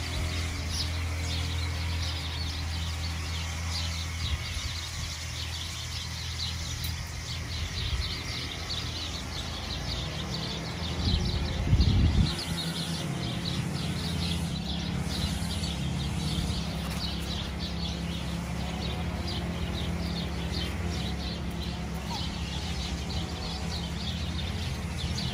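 Small birds chirping continuously, many short high chirps over a steady low hum. A brief low rumble stands out about halfway through.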